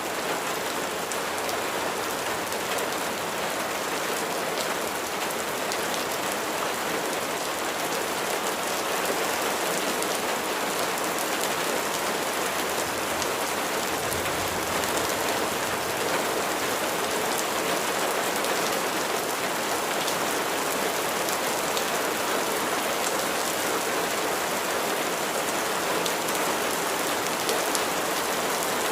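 Steady rain falling: an even hiss of many drops, with single drop hits heard as small ticks.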